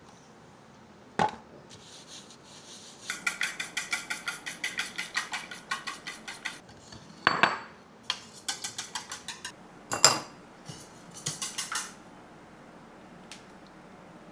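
A metal utensil clinking rapidly against a bowl in three quick runs of strokes, about seven a second, with a few single sharper knocks of a dish being set down or struck.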